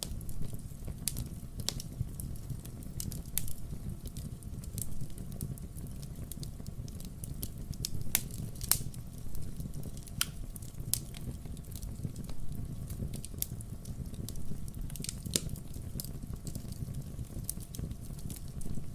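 Wood fire burning with irregular sharp crackles and pops over a steady low rumble.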